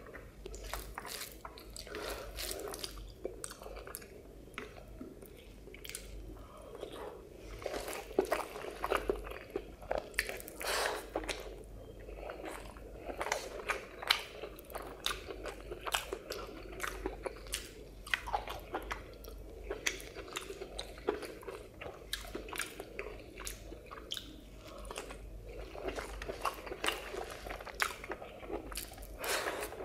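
Close-miked eating sounds of a man eating rice with egg curry and fried fish: wet chewing with many irregular sharp mouth clicks and smacks, busiest around the middle.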